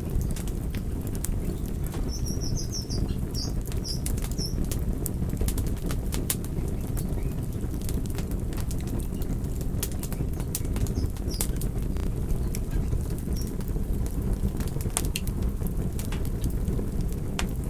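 Campfire burning: a steady low rumble of flames with frequent sharp crackles and pops from the burning wood. A short run of high chirps comes about two to four seconds in.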